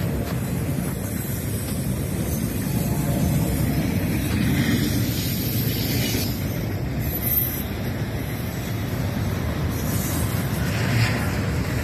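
Double-stack intermodal freight cars rolling past on steel rails: a steady low rumble of wheels on track, with a few brief higher-pitched squeaks over it.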